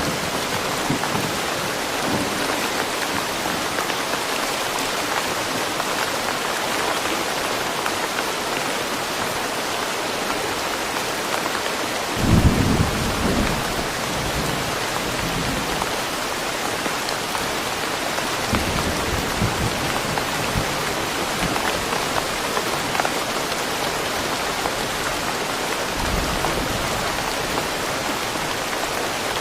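Steady rain falling in woodland, with deep rolls of thunder: the loudest about twelve seconds in, fainter ones around nineteen and twenty-six seconds in.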